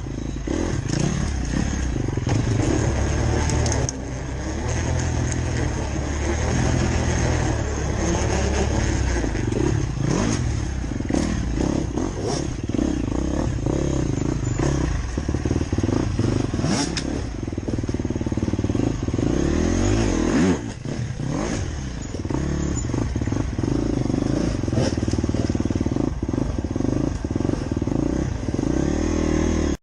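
Motorcycle engine running, its pitch rising and falling as the throttle changes.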